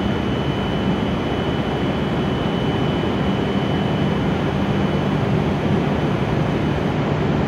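W7 series shinkansen standing at the platform with its equipment running: a steady low mechanical hum with a faint, steady high whine over it.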